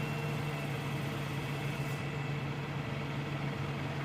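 Shingle delivery truck's engine running with a steady low hum while its boom lifts a load of shingles to the roof.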